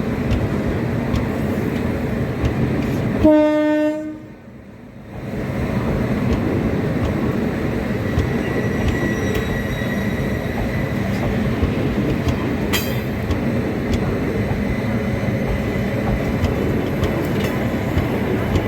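Indian Railways WAP7 electric locomotive and its passenger coaches passing at speed, with the steady running noise of the train on the rails. There is one short horn blast about three seconds in. The noise dips for about a second just after the blast.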